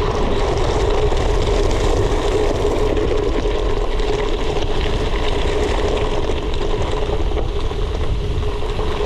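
Gravel bike rolling along a forest gravel trail: steady tyre noise with a constant hum and a fine rattle and crunch of gravel under the wheels.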